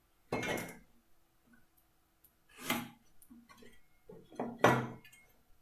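Marking out timber with a pencil and tri-square: three short scratchy strokes about two seconds apart, with small knocks and ticks of the square and wood in between.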